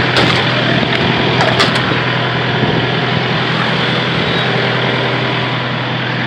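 A diesel engine running steadily with a constant low hum, and a few light clicks in the first two seconds.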